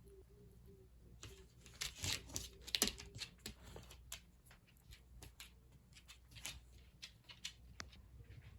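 A mixed-breed dog's footsteps: a quick, irregular patter of light clicks, loudest about two to three seconds in.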